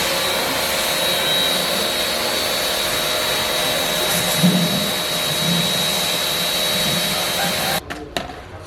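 A handheld electric power tool running steadily at full speed with a high, even whine, switched off abruptly near the end.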